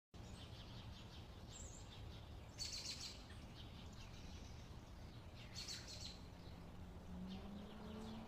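Faint birds chirping over a low steady background rumble, with two louder flurries of chirps, one about a third of the way in and one a little past the middle.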